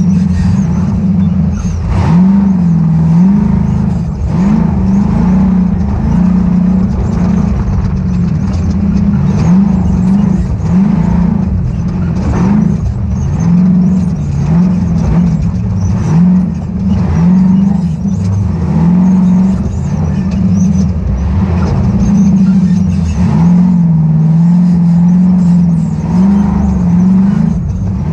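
Ultra4 off-road race car's engine running hard, its revs rising and falling every second or two with the throttle, with occasional knocks.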